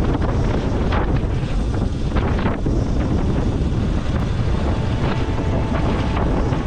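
Heavy wind buffeting on the microphone of a motorcycle travelling at road speed, with the bike's engine and road noise underneath.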